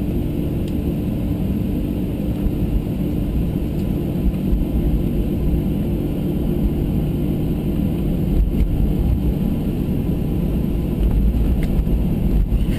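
Boeing 737-800's CFM56 jet engines and airflow as a steady low rumble with a constant hum, heard inside the cabin.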